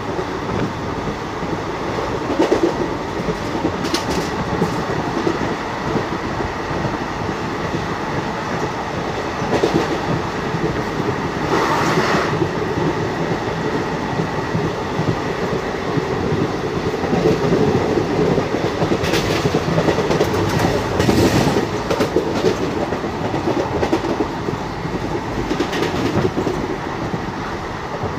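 Passenger train coach running along the line, heard from its open doorway: a steady rumble of wheels on rail with clickety-clack over the rail joints and rushing air. Sharper clattering comes about twelve seconds in and again around twenty seconds.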